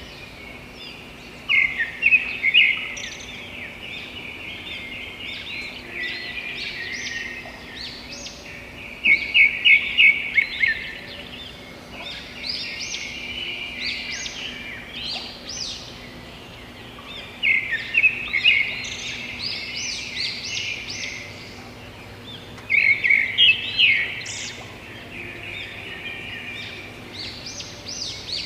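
Birds chirping and singing in a continuous chorus of rapid, high trills and twitters, with louder bursts of song about every seven or eight seconds.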